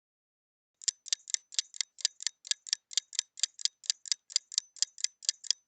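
Countdown-timer sound effect: rapid, even clock ticking at about five ticks a second, starting about a second in.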